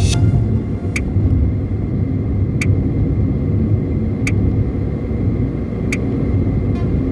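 Car driving on the road, heard from inside the cabin: a steady low road-and-engine rumble, with a short click repeating about every second and a half.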